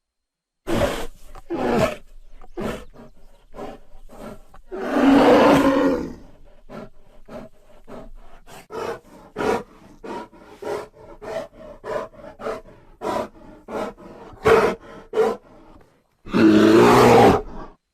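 Creature sound effects for a giant prehistoric bear: short roars near the start, a long roar about five seconds in, a run of short grunting calls roughly one or two a second, then another long roar near the end.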